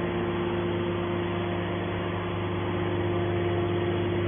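Hydraulic scrap metal baler's power unit running steadily, a constant droning hum with a strong pitched tone.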